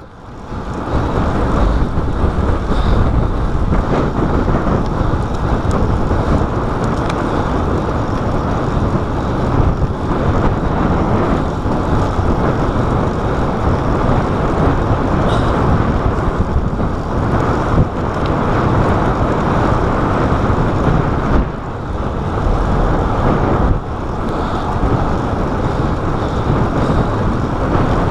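Steady wind rush on a chest-mounted GoPro's microphone, with road noise underneath, while riding a road bike at speed. The level dips briefly twice, a little past two-thirds of the way through.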